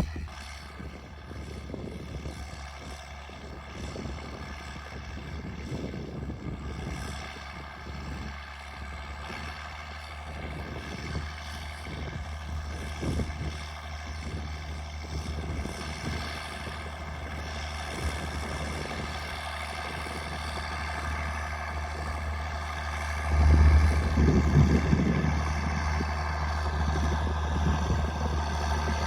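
Straight-piped John Deere 4630 tractor's six-cylinder turbo diesel running steadily under load, with a louder surge near the end.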